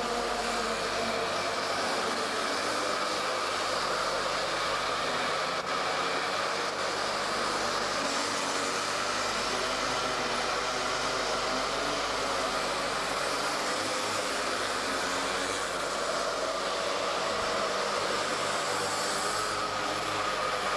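Small two-stroke mini moto engines running on a track, a steady buzz whose pitch wavers slowly as the riders go round.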